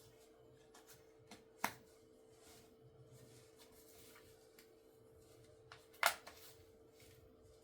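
Faint handling noises: scattered light taps and rustles with two sharper clicks, about two seconds in and about six seconds in, over a faint steady hum.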